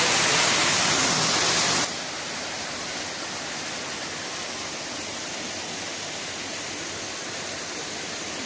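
Steady rush of a waterfall, a hiss of falling water. About two seconds in it drops abruptly to a quieter, steady rush.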